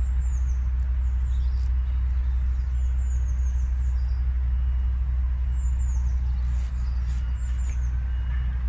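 Steady low rumble, with a small bird repeatedly giving short, high, downward-sliding calls.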